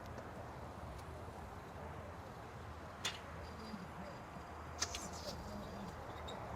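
Quiet street background: a low, steady hum, with two sharp clicks about three and five seconds in.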